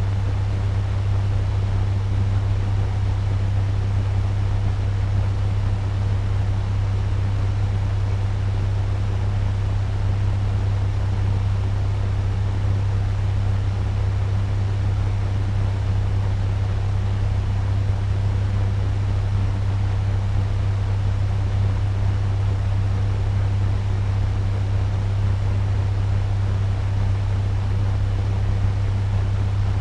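Turbo fan running steadily at medium speed: a constant rush of moving air over a strong low hum.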